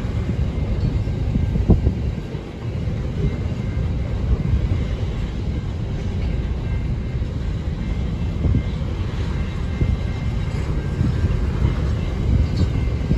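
Container wagons of a freight train rolling past on the track: a steady low rumble of steel wheels on rail, with a few short clicks.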